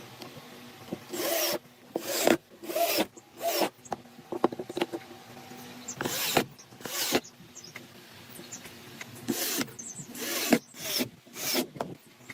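Wood being worked by hand with an abrasive, about ten short rubbing strokes in three loose groups with pauses between them.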